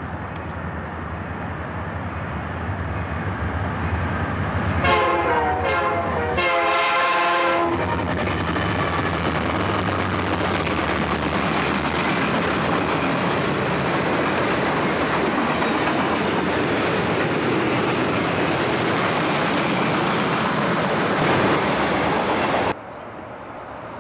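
Freight train passing: the diesel locomotive's engine rumbles louder as it approaches, and about five seconds in its multi-chime horn sounds a few blasts, the last and longest lasting over a second. Then comes the steady rumble and clatter of boxcars rolling by on the rails, which cuts off abruptly near the end.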